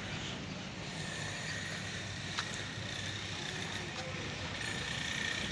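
Steady rumble of vehicle noise with a faint high steady whine and a single sharp click a little over two seconds in.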